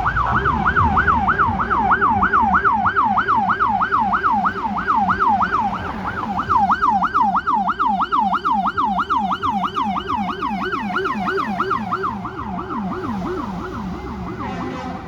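Two fire apparatus sirens on fast yelp at once, each sweeping up and down about three times a second, one higher-pitched and one lower. The lower siren comes up strongly about six seconds in while the higher one fades somewhat.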